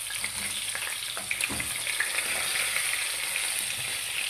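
Stuffed potatoes shallow-frying in hot oil in a pan: a steady sizzle with fine crackling. A few light clicks come from the tongs as the browned potatoes are turned and lifted out.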